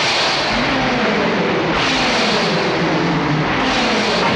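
Vehicle engines running hard at speed, their pitch gliding up and down under a loud rushing noise that swells twice.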